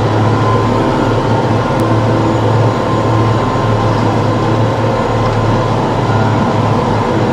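TYM T654 tractor's diesel engine running steadily at working speed, a constant loud drone with a low hum and a faint whine above it.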